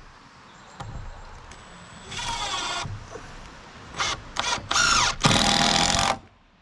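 Cordless power drill running in short trigger bursts, as when driving screws: one whine about two seconds in, then four quick bursts near the end, the pitch dropping as the motor loads, and a sudden stop.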